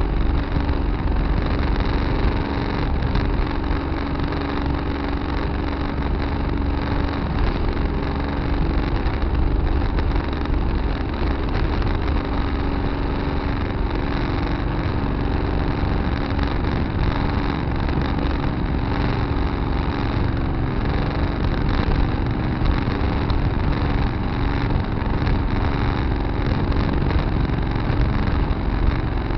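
Tractor engine running steadily, heard from a dash camera mounted on the tractor, with an even drone that holds at one level throughout.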